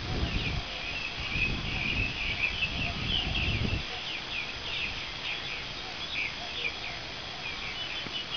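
Birds chirping in many quick, short calls, with a low rumble underneath that stops about four seconds in.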